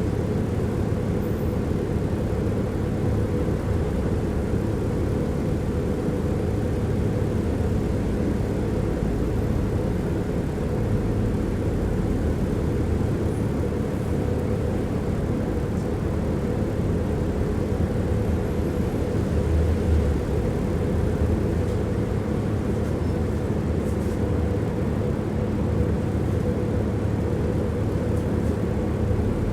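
Tram running along its rails, heard from inside the passenger car: a steady low rumble of wheels and car body with a faint steady hum, and one heavier bump about twenty seconds in.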